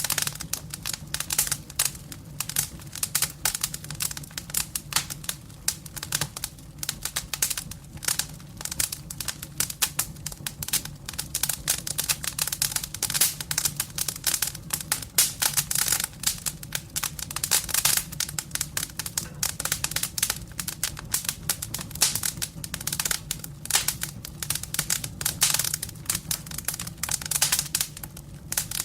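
Wood burning in a fireplace, crackling with dense, irregular pops and snaps over a steady low rumble.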